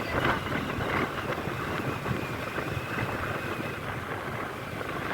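Steady rushing noise of wind blowing on the microphone outdoors.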